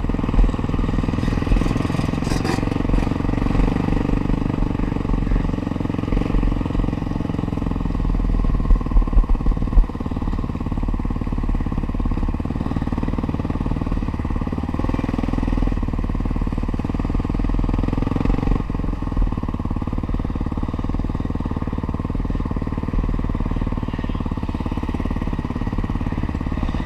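Honda CRF450R's single-cylinder four-stroke engine running steadily as the bike is ridden, with a brief cluster of sharp knocks about nine seconds in.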